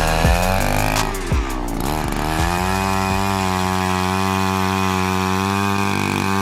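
Gas-powered ice auger running while drilling through lake ice. The engine speed dips and recovers about one to two and a half seconds in, then holds steady.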